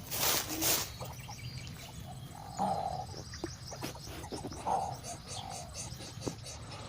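Short, rough bird calls, three or four of them, likely from coucal chicks, with a brief rustling burst at the start. Faint high chirps sound throughout.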